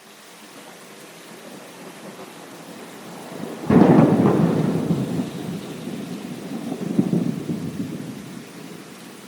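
Thunderstorm: steady rain, then about four seconds in a sudden clap of thunder that breaks into a long low rumble, swelling again about three seconds later before dying away under the rain.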